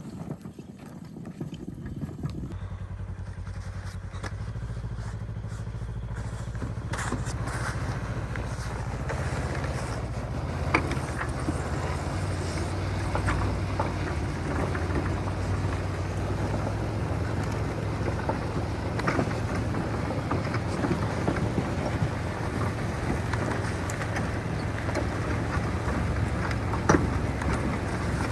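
A small vehicle engine running steadily, settling into an even note a couple of seconds in and running a little louder from about seven seconds. A few sharp knocks sound over it, the loudest near the end.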